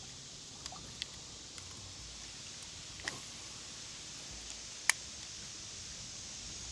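Faint steady high hiss of lakeside ambience, broken by a few small sharp clicks from handling fishing tackle while casting a line; the sharpest click comes about five seconds in.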